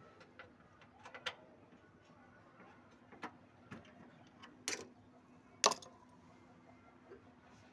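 Scattered sharp clicks and light knocks at an uneven pace, two louder knocks about five and six seconds in, as parts of an air-conditioner outdoor unit are handled, over a faint steady hum.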